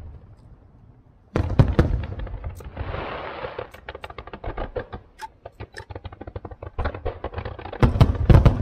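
Aerial fireworks shells bursting: a cluster of loud bangs about a second in, then a brief hiss and a long run of rapid crackling pops from crackle stars, and another cluster of loud bangs near the end.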